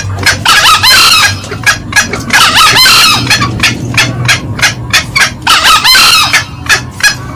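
Green junglefowl calling: a rapid run of short sharp clucks, about three or four a second, with three longer, rough crowing calls over it. This is the male and the female cackling together, as used for a loud lure call.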